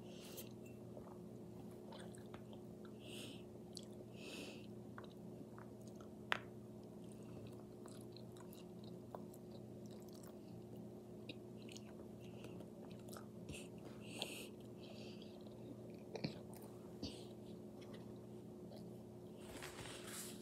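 A person chewing a mouthful of food close to the microphone, with small wet mouth clicks and smacks and one sharper click about six seconds in, over a steady low hum.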